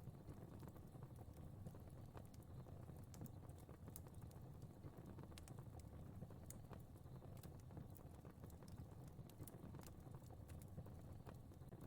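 Faint fire crackling: irregular small pops and snaps scattered over a low, steady rumble of burning.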